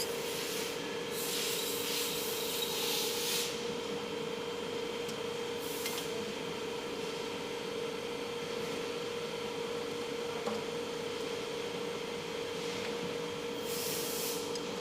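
Metal parts of a hand cold-welding die rubbing and scraping as it is handled, in a few stretches (about a second in, around six seconds, and near the end), over a steady electrical hum.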